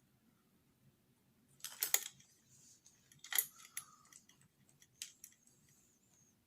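Clicking and rattling from e-bike wiring and connectors being handled: two short bursts about two and three and a half seconds in, then a few lighter clicks near the five-second mark.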